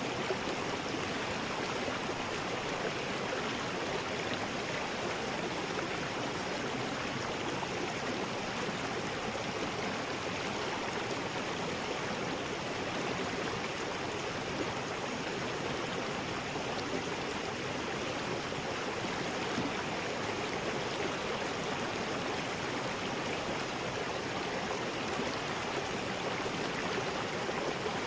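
River rapids: a steady, unbroken rush of water tumbling over rocks.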